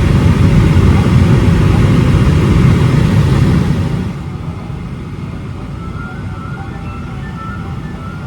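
Steady, loud jet-airliner rumble that drops suddenly about four seconds in to a quieter steady hum, with faint short tones above it.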